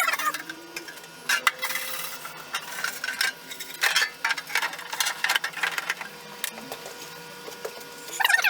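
Metal tackle box parts clinking and scraping irregularly as they are scrubbed clean of rust in degreaser.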